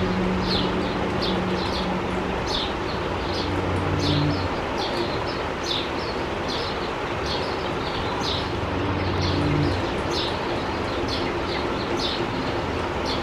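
Baby sparrow chirping over and over, short high calls about one to two a second: a young bird calling for its parents to come and feed it. A steady low hum runs underneath.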